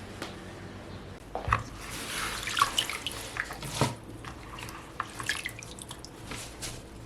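Water from a tap splashing into a sink in short spells, with drips and small knocks between them.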